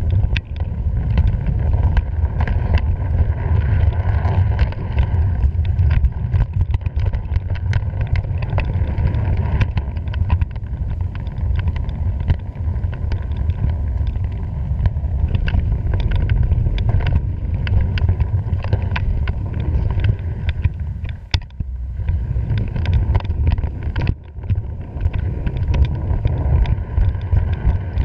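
Freight train running, heard from on board: a loud, steady low rumble of wheels on rail with frequent clanks and rattles throughout.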